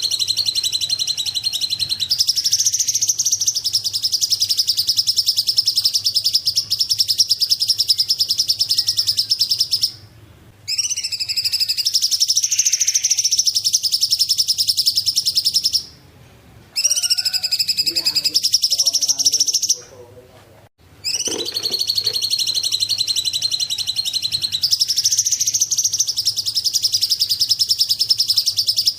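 Songbird known in Indonesia as cungkok singing long, fast, high-pitched trilling phrases, each several seconds long, with three short pauses.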